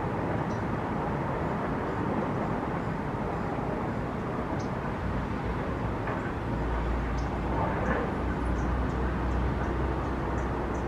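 Steady outdoor background noise with a low rumble that grows somewhat stronger past the middle, and faint, short, high bird chirps scattered through it.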